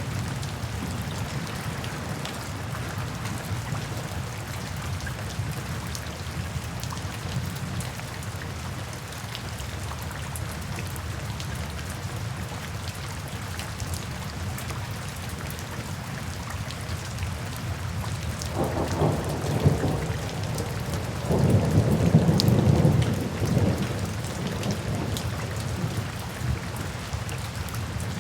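Steady rain falling, with two low rolls of thunder about two-thirds of the way through, the second longer and the loudest.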